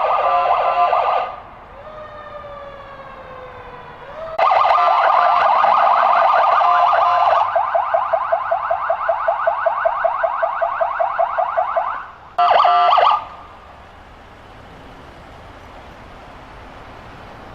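Fire company emergency vehicle sirens: a short loud blast, a falling wail, then a long steady tone that breaks into rapid pulsing of about five a second, and another short blast near the middle. After that the sirens stop and only a lower steady background noise remains.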